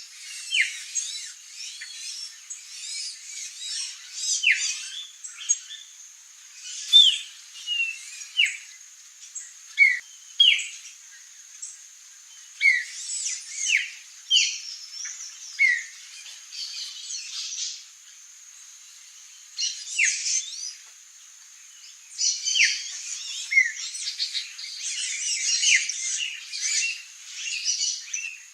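Songbirds chirping and calling, with many short, sharp, down-slurred notes coming irregularly and a brief lull in the middle, over a faint steady high-pitched hum.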